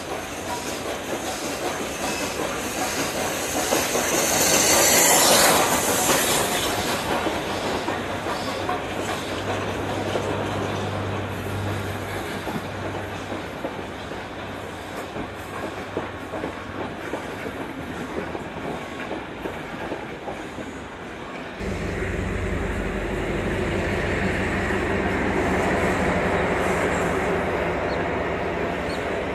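A steam locomotive and its train of coaches passing close below, with wheels clattering over the rail joints; it is loudest as the locomotive goes by, about five seconds in. After an abrupt change near the end, a diesel multiple unit passes with a steady low engine drone.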